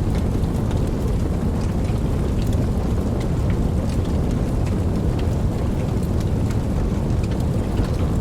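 Steady rain: a dense, even wash of falling water with scattered sharp ticks of single drops.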